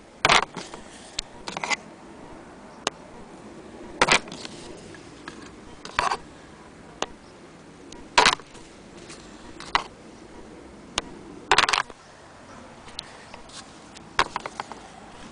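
Sharp, irregular clicks and clacks every couple of seconds, from the metal parts of an antique Willcox & Gibbs sewing machine being handled, not running.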